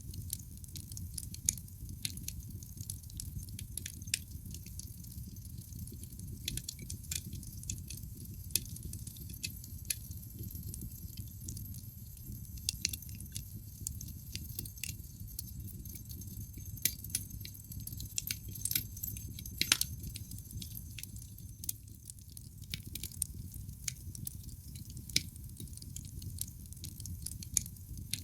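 Wood fire burning in a fireplace: a steady low rumble of flames with irregular crackles and snapping pops from the burning logs, one louder pop about twenty seconds in.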